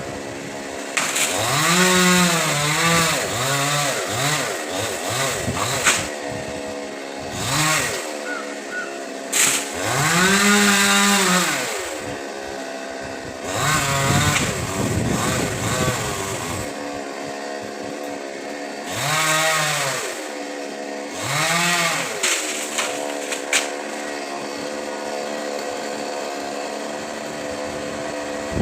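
Two-stroke chainsaw running, its engine pitch rising and falling in repeated revs with steady idling between them.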